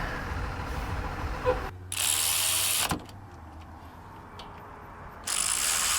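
Cordless power tool run in two short bursts of about a second each, driving the brake caliper bolts back in.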